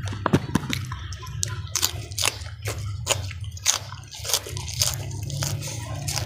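Close-miked mouth sounds of crunching and wet chewing on raw vegetables, a sharp crunch about twice a second, over a steady low hum.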